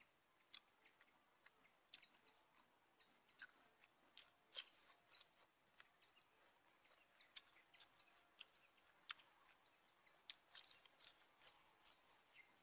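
A person chewing a mouthful of roast pig leg close to the microphone: soft, irregular wet clicks and small crunches.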